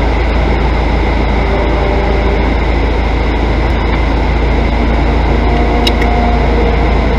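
Steady low rumble of a car engine idling, heard from inside the stationary car's cabin, with two faint clicks about six seconds in.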